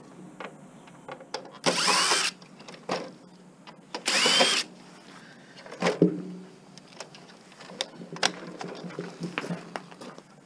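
Power drill backing out screws: two short bursts about two seconds apart, the motor's pitch rising as it spins up each time, with light clicks and knocks of parts being handled in between.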